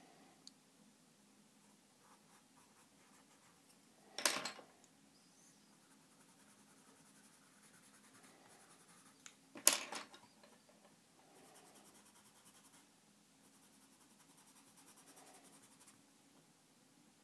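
Drawing tool scratching and rubbing on paper, faint and uneven, with two brief louder noises about four and ten seconds in.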